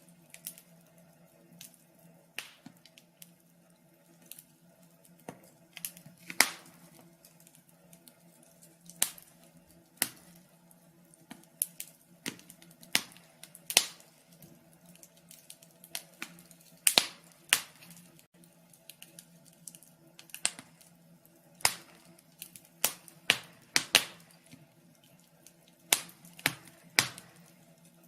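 Fire crackling: irregular sharp pops and snaps, sometimes single and sometimes in quick clusters, over a faint steady low hum.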